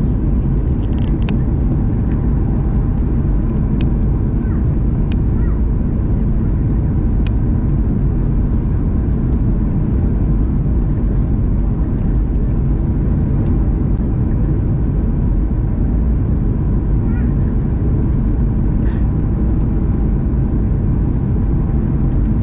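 Passenger-cabin noise of an airliner: a steady, loud low rumble of engines and airflow heard from inside the cabin, with a few faint clicks.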